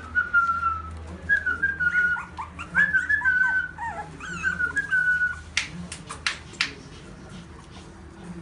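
Puppy whining, a string of high-pitched whimpers that slide up and down in pitch, followed by a few sharp clicks about six seconds in.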